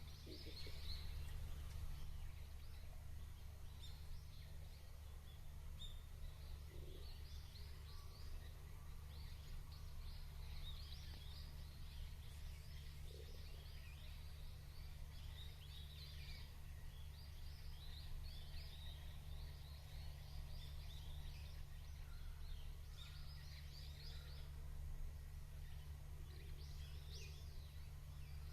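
Small birds chirping and twittering, many short high calls overlapping throughout, over a steady low rumble.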